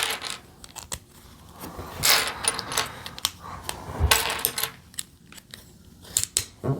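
Small plastic Lego pieces clicking and rattling as they are handled and pressed together, in scattered sharp clicks with a couple of short rustling spells.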